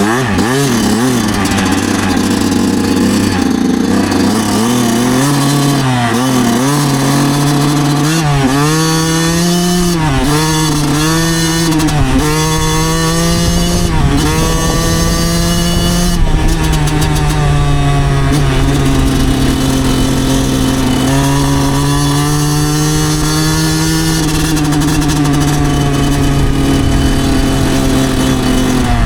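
2009 Yamaha YZ125's two-stroke single-cylinder engine under way. Its pitch repeatedly drops and climbs again with throttle and gear changes over the first half, then holds a fairly steady cruise.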